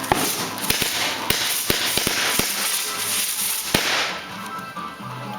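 Ground firework going off: a quick, irregular string of sharp pops and cracks over a steady hiss. The hiss dies down about four seconds in, leaving scattered cracks.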